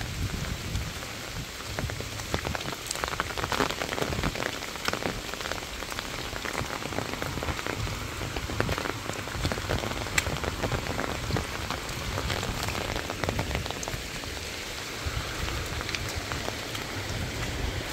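Heavy rain falling on leaves, grass and a muddy lane: a steady hiss with many close drops ticking through it and a low rumble underneath.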